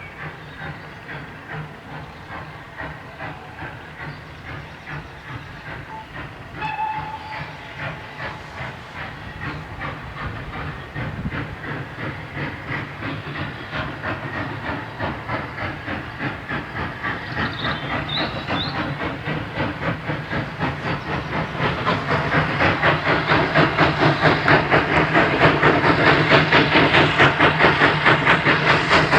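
Steam locomotive working hard up a gradient, its exhaust beating about three times a second and growing steadily louder as it approaches.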